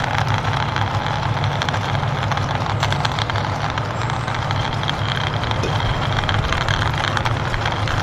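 Steady truck-engine rumble with a hiss above it, accompanying a toy army tanker truck driven along by hand.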